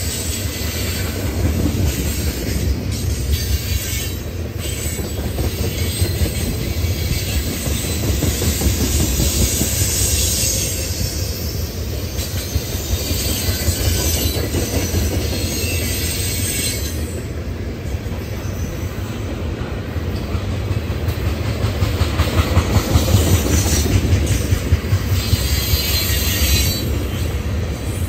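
A train rolling steadily past, its wheels rumbling and clattering on the rails.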